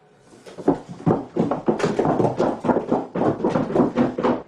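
A quick, even run of hard knocks, about five a second, that cuts off suddenly at the end.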